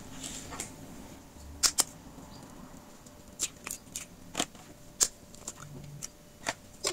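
Eggs being cracked for a cheese-pie filling: a handful of sharp, irregular clicks and taps of shells struck on a bowl and broken open.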